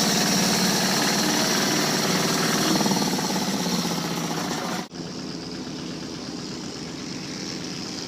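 Longtail boat engine running loud and steady, with a rattly, jackhammer-like texture; about five seconds in it cuts off abruptly to a quieter steady sound.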